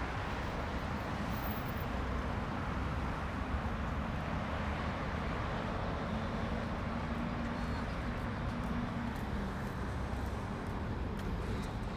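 Road traffic passing: a steady rumble of engines and tyre noise, with one vehicle's engine note standing out for a few seconds in the middle.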